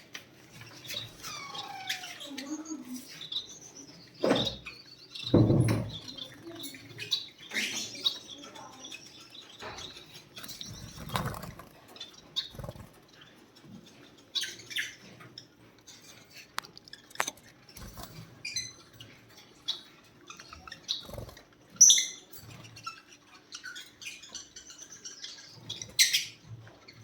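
Lovebirds chirping in their breeding cages: many short, high chirps and squeaks in quick irregular bursts, with a few dull knocks among them.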